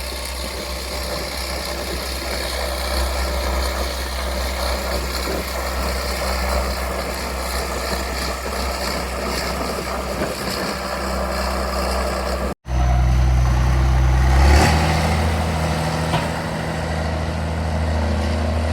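Turbocharged engine idling steadily, its turbo whistling. About two-thirds of the way through, the sound cuts to a louder engine hum that shifts pitch a couple of seconds later.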